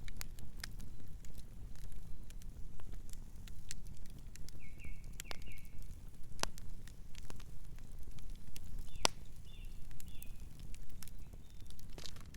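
Campfire crackling: irregular sharp pops and snaps over a low steady rumble. Birds give short chirps in two brief runs, a few seconds in and again past the middle.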